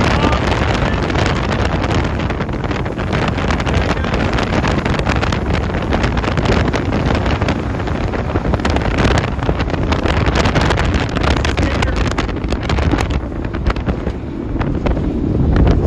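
Powerboat engines running at speed under heavy wind buffeting on the microphone, a loud continuous rumble with gusts.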